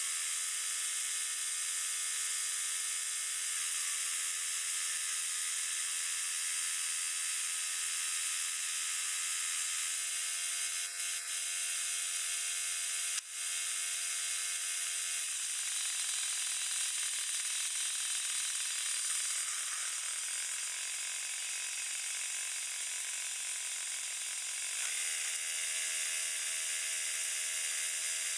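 Portable band sawmill running and cutting, a steady mechanical hiss with a droning hum whose tone changes for several seconds in the second half. There is a single sharp click about halfway through.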